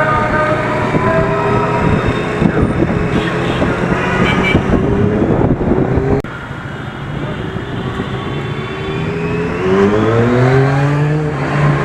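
Superbike engines running on the road. After a sudden drop in level about six seconds in, one engine revs up in a rising pitch near the end.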